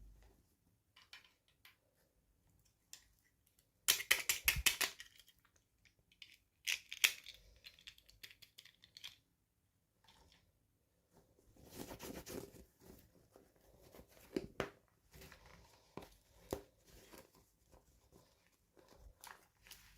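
Toy packaging being opened by hand: bursts of tearing and crinkling, the loudest about four seconds in, with scattered small clicks and taps between them.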